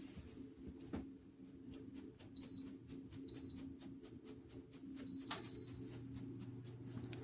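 Dreo electric space heater running with a low steady hum. Its control panel gives two short high beeps, then a longer beep about five seconds in, as buttons are pressed, and a lower hum joins after it.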